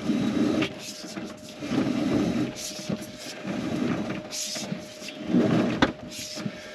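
Electrical cable being pulled through a trailer's wiring run, rubbing and scraping in about four repeated pulls, with a sharp click near the end.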